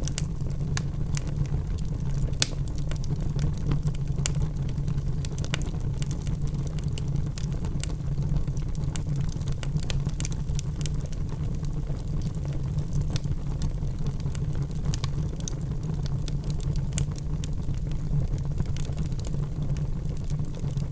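Logs burning in a fireplace: a steady low rumble of the fire with frequent sharp crackles and pops, one louder pop about two and a half seconds in.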